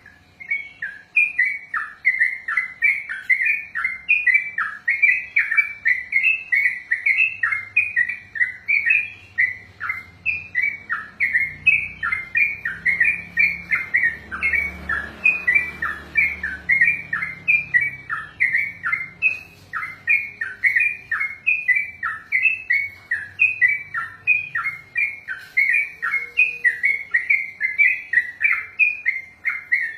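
Yellow-vented bulbul (trucukan) singing a long unbroken run of loud, quick, bubbly chirped phrases, about two to three a second: the continuous 'ropel' song that keepers breed and train these birds for.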